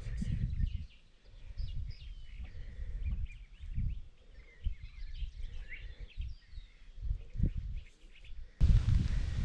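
Several wild birds chirping and calling, over an uneven low rumble. Near the end the sound becomes abruptly louder.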